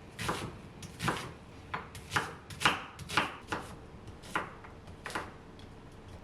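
Kitchen work noises: about ten short, irregular strokes, like food or containers being handled or cut, over about five seconds, then only faint room tone near the end.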